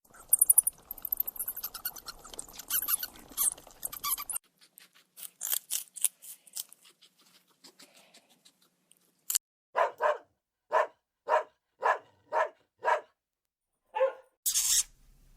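A dog barks about seven times in a steady run, roughly two barks a second. Before the barks come a few seconds of scratchy rustling and clicking, and a hiss starts near the end.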